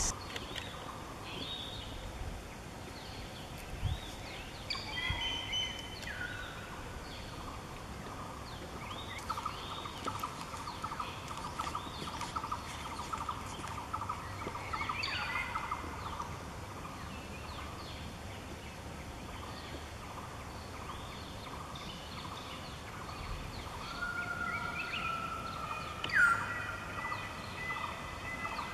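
Wild birds calling in forest: assorted short whistles and chirps, a held high note that comes and goes for several seconds at a time, and sharp falling calls, the loudest near the end.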